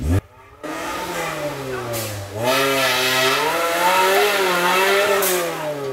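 Maruti Suzuki Gypsy's engine revving under heavy load as it crawls through deep mud, its pitch rising and falling with the throttle. It gets louder about two and a half seconds in.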